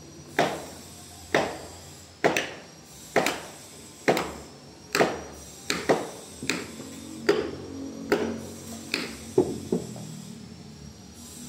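Heavy hammer blows struck in a steady rhythm, about one a second, each with a short ringing tail; the later blows come a little weaker and closer together.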